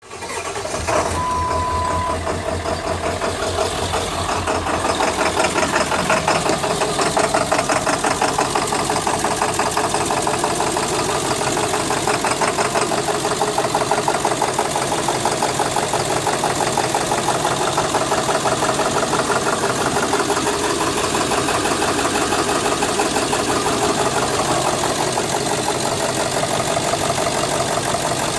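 7.3L Power Stroke V8 turbodiesel idling roughly with a steady, even knock. The rough idle is one of the owner's complaints, along with no power and white smoke. A short steady beep sounds about a second in.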